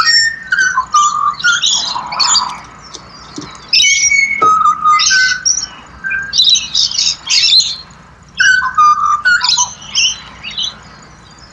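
Pied butcherbirds singing: clear whistled notes in short runs, mixed with harsher, higher chattering calls.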